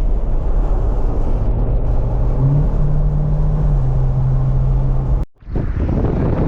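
Car on the move: steady engine and road rumble with a low engine note that steps up in pitch about two and a half seconds in. The sound drops out abruptly for a moment a little after five seconds.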